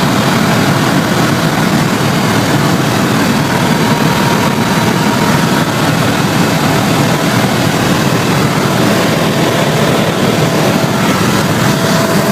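Helicopter engine and rotor noise heard from inside the cabin in flight: a loud, steady, even noise with no change.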